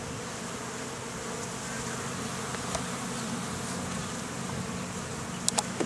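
Honeybees buzzing around an opened hive during an inspection: a steady, even drone of many bees. A few sharp clicks near the end.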